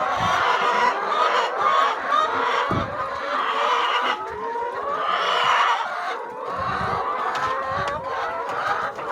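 A flock of chickens clucking and calling, many birds at once, with a few faint low thumps.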